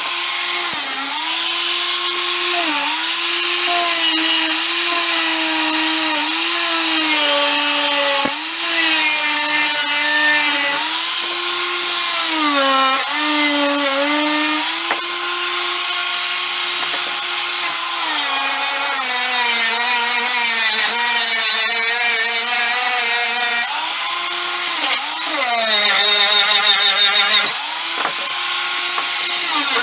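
A handheld electric power tool running continuously, its motor note sagging and recovering again and again as it is pressed into the work, over a steady high hiss.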